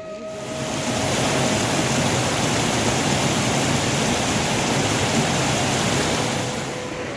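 Heavy rain pouring down, a steady rushing hiss that swells up in the first second and dies back near the end.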